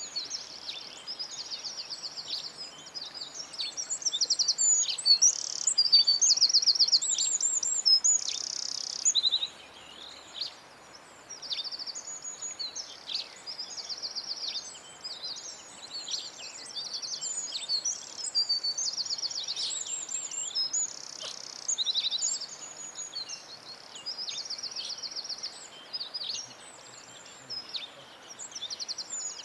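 Several songbirds singing at once: rapid high trills and chirps that overlap almost without pause, over a faint steady hiss.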